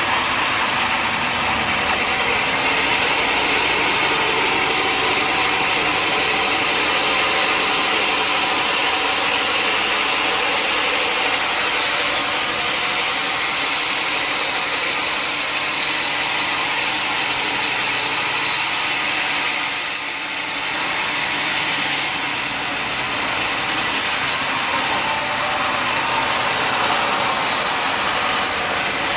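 Sawmill saw cutting steadily through a mahogany log, the blade's rasping noise over the mill's running motor, easing briefly about two-thirds of the way through.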